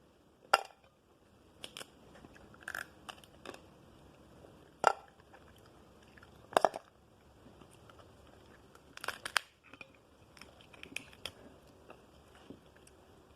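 Cooked blue crab shell being cracked and crunched while eating: irregular sharp cracks and small clicks, a few louder snaps among softer ones, with chewing.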